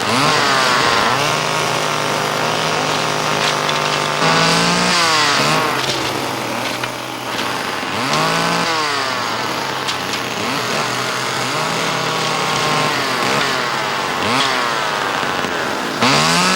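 Small engine revving up sharply and dropping back, again and again, about every four seconds, with a steady running note in between.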